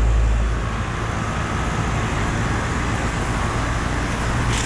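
A 2018 Lennox T-Class 5-ton air conditioner running: a steady fan whoosh over a low hum, with a deeper rumble in the first half second that eases off.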